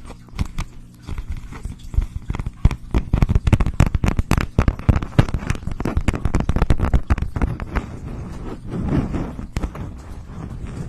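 ASMR trigger sounds close to the microphone: quick, irregular clicks and crackles, densest through the middle, giving way to a softer rustle near the end.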